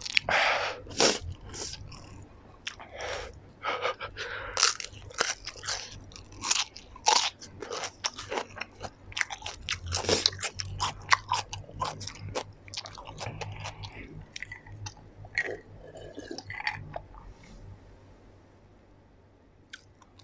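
Close-miked chewing of a mouthful of spicy dark instant noodles: a quick run of wet mouth clicks and lip smacks that thins out and dies away near the end.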